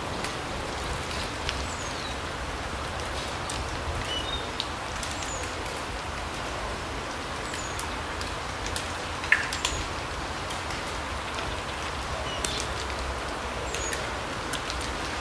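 Autumn larch forest ambience: a steady hiss with scattered sharp ticks like dripping, and brief, high downward-sliding chirps from small songbirds dotted throughout, plus one louder tick about nine seconds in.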